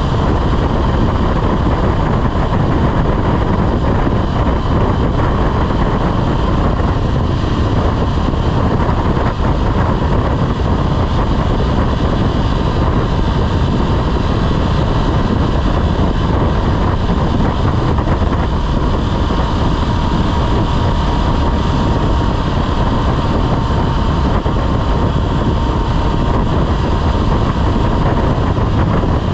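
Motorcycle riding at a steady speed: the engine runs steadily under heavy wind rush on the microphone, with no change in pace.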